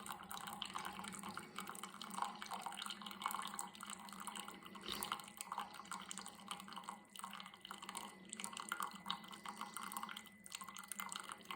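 Cuisinart single-serve coffee maker brewing, hot coffee trickling and dripping into the cup: a faint, uneven stream of small drips.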